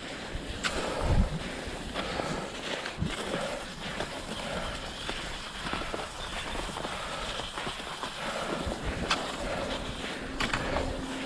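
Cross-country skis sliding and scraping over snow, with scattered sharp clicks and a few low thumps from the skis and poles.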